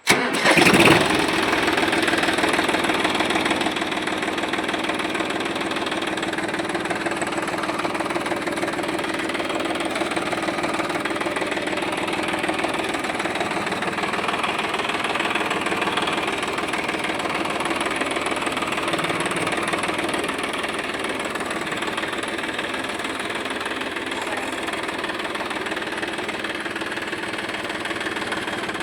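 Tractor diesel engine starting up, louder for the first second or two, then running steadily at idle.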